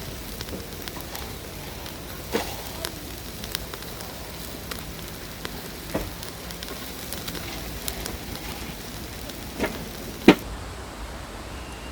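Camp cooking crackling and sizzling: a steady hiss with irregular sharp pops, the loudest just past ten seconds in, after which the high hiss drops away.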